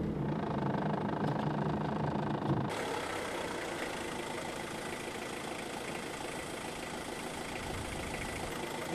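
Old car's engine running: a steady drone heard from inside the cabin while driving, then, after an abrupt change about three seconds in, the engine idling with a fainter, fast, even pulse.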